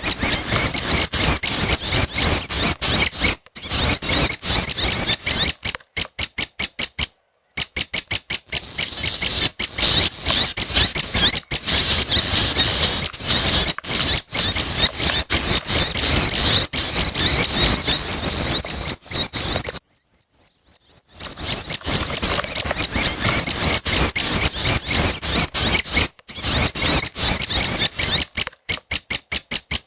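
Young red-headed prenjak calling: continuous fast, high-pitched chattering, broken by runs of rapid evenly spaced chips and a pause of about a second roughly two-thirds of the way through.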